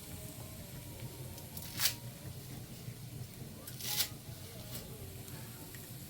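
Two short rustling noises, about two seconds apart, over a steady low background hum.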